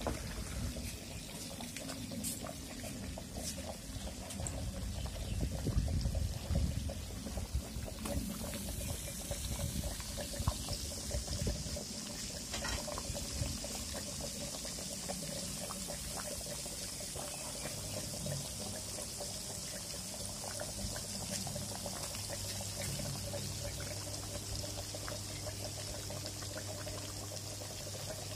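Food cooking in a pan, a steady hiss with many fine crackles and liquid bubbling. A low steady hum comes in past the middle.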